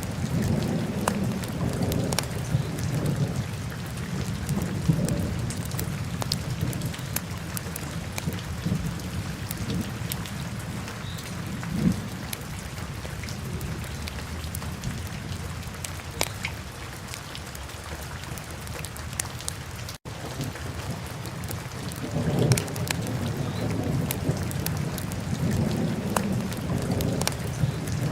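Wood fire burning in a fireplace: a steady low roar of flames with scattered sharp crackles and pops. The sound cuts out for an instant about two-thirds of the way through.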